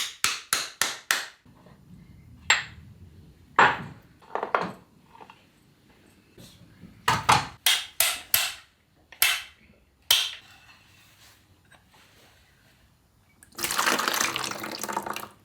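Metal tool clicks and clinks on a Land Rover Series gearbox casing, including a quick run of clicks at the start, then about two seconds before the end a rush of liquid pouring out. It is water rather than oil draining from the main gearbox, a sign that water has got into the box.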